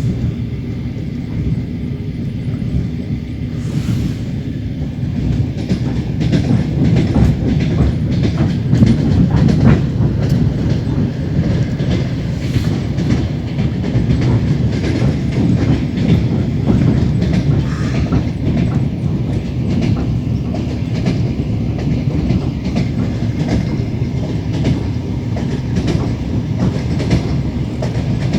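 Passenger train running along the track: steady rumble of the carriage with the clickety-clack of wheels over rail joints, heard from inside the carriage by the window.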